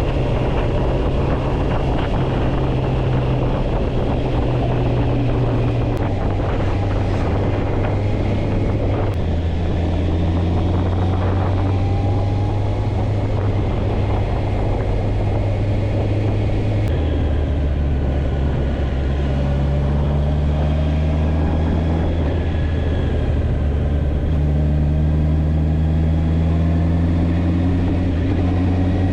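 Motorcycle engine running steadily at riding speed over a rushing noise. The engine note drops in steps a few times, then rises gradually through the last several seconds.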